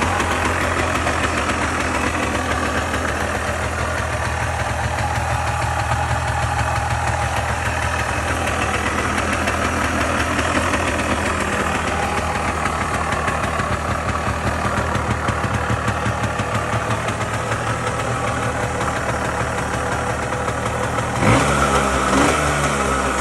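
Honda TLM200R's single-cylinder two-stroke engine idling steadily, then revved once briefly near the end.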